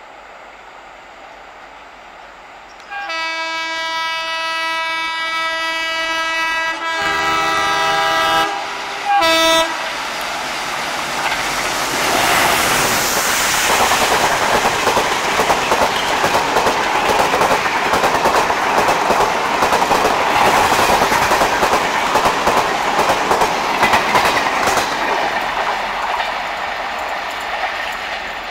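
WDM3A diesel locomotive sounding its horn: one long blast a few seconds in, a second blast on two notes, then a short third blast. The express then passes at speed, a loud rush of coaches with wheels clattering over the rail joints, easing slightly near the end.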